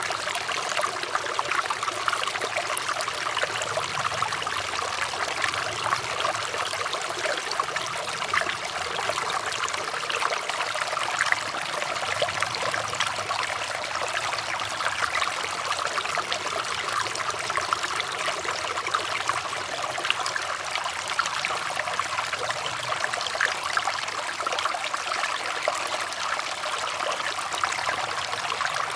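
Water flowing and trickling steadily, like a small stream running over stones, with a constant splashing babble and no pauses.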